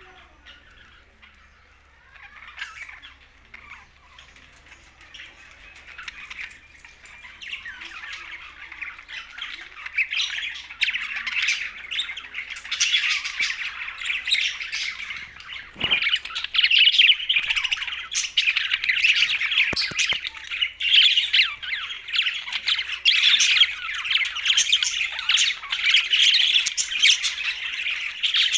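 Budgerigars chattering and squawking, several at once: sparse calls at first, building into a dense, continuous, loud chorus by about halfway through.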